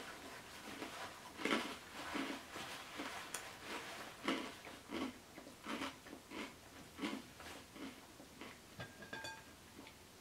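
A person chewing a mouthful of food close to the microphone, about one to two chews a second, fading somewhat towards the end.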